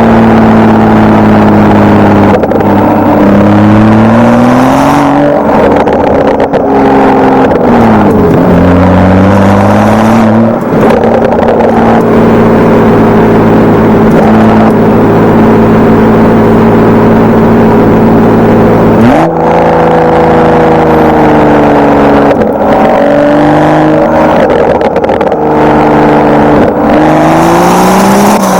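BMW 335i's N55 turbocharged inline-six running through a Wimmer stainless-steel exhaust, 3-inch from the catalytic converter, in sport mode. The engine note climbs and falls several times, holds steady for several seconds in the middle, then jumps up abruptly about two-thirds of the way through and keeps rising and falling.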